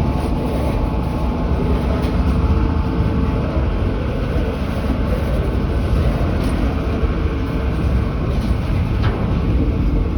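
A train running, a loud, steady rumble with a few steady tones over it.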